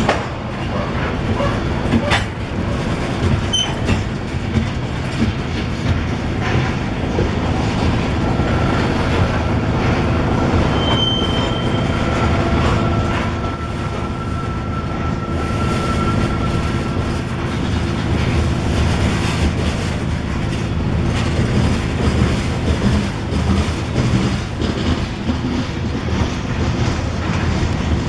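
Freight train rolling past: grain hopper cars rumbling along the track, with wheels clicking over the rails and a thin wheel squeal for several seconds in the middle.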